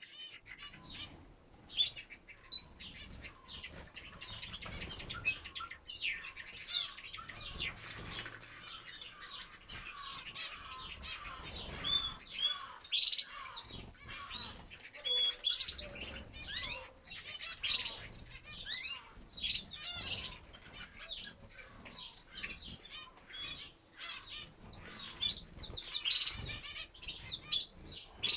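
Flock of domestic canaries in a flight cage chirping and twittering continuously, many birds overlapping, with wings fluttering as they move about.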